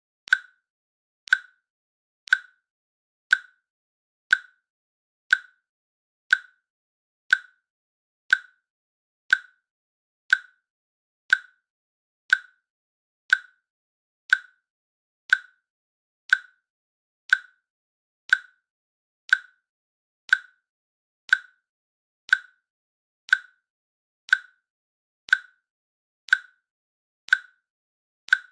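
A countdown timer's click sound effect ticking once each second, each click short and sharp, with silence between them.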